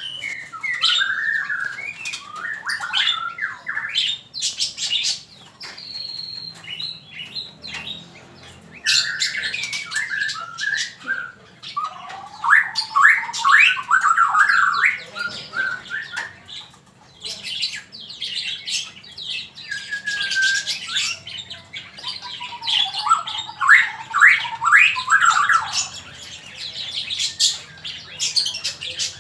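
Male murai, a Copsychus songbird, singing loudly in long bouts of varied fast notes, sliding whistles and harsh squawky phrases, with short pauses between bouts.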